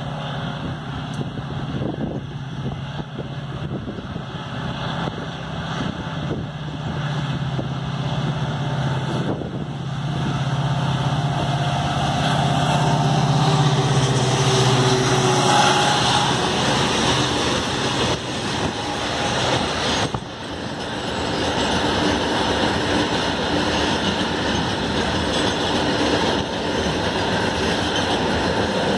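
WDG-4 (EMD GT46MAC) diesel-electric freight locomotive approaching and passing close by, its engine drone growing louder to a peak about halfway through. It is followed by the steady rumble and clatter of a long train of covered goods wagons rolling over the rails.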